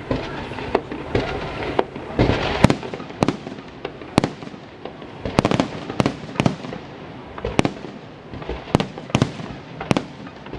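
Festive salute fireworks going off: a run of sharp bangs at irregular intervals, often several in quick succession, over a continuous background of noise.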